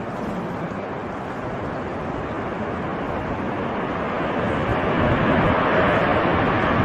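Jet noise of a Boeing 747 freighter on its landing approach, a steady rush that grows louder over the first few seconds and stays at its loudest near the end.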